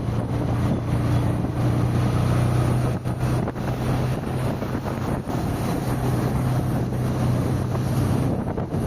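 Car driving along a road: a steady engine hum under a constant wash of tyre and wind noise.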